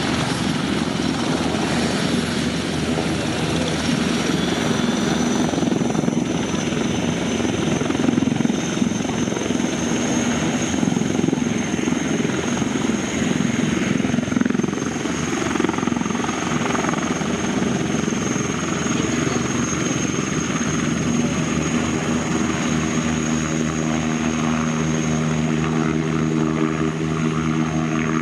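Propeller aircraft engines droning steadily overhead, with a steadier, clearer engine tone coming in near the end.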